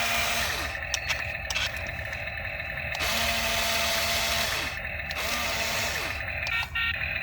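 Small electric motors of a toy RC excavator whirring as it works its arm and bucket. The whir shifts every second or two as different moves start and stop.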